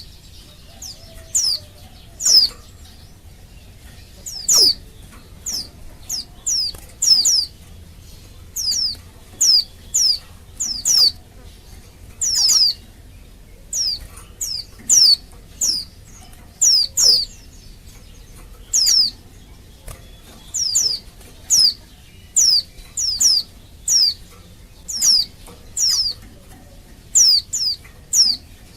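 Female white-eye (pleci) calling: short, thin, high notes, each sweeping quickly downward, often given in twos or threes, repeated about every second. It is the call of a female in breeding condition that bird keepers play to set male pleci singing.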